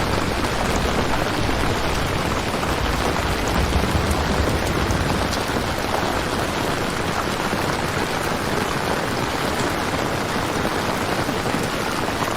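Steady rain falling, an even hiss of drops with a low rumble underneath during the first half.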